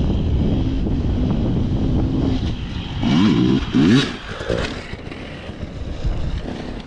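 KTM 300 two-stroke enduro motorcycle engine running, revved up in two quick rising sweeps about three seconds in, then settling back to a lower, quieter running.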